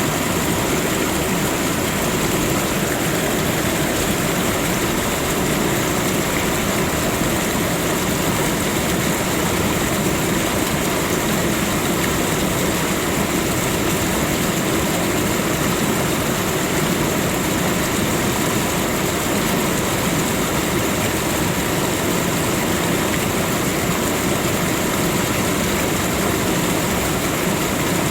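Steady rushing water, an even, unbroken noise with a constant high hiss over it.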